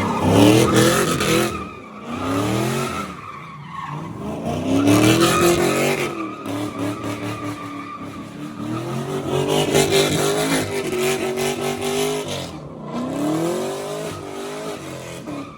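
A car engine revving hard, its pitch swinging up and down over and over, with tires squealing and skidding as the vehicle spins donuts.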